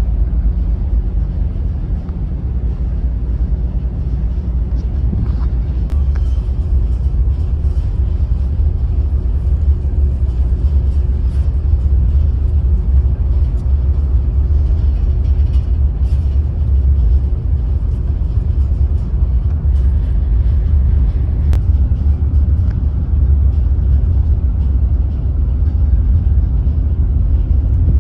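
Steady low rumble of a moving vehicle heard from on board, with a faint steady hum above it.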